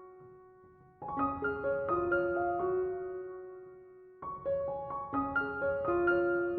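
Slow, soft piano-like keyboard music: phrases of single struck notes that ring and fade, the first beginning about a second in after a brief near-silent gap, another just past four seconds.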